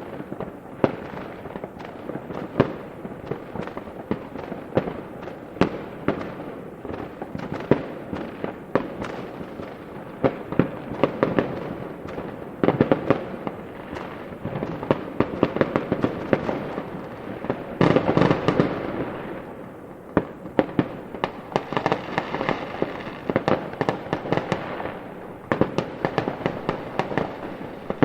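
Fireworks going off in a continuous barrage: many sharp bangs, one after another, with a denser, louder volley about two-thirds of the way through and stretches of crackling.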